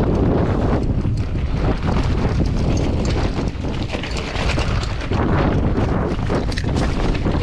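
Strong wind buffeting the microphone in a heavy, unbroken rumble, with frequent knocks and rattles from the mountain bike riding over rough ground.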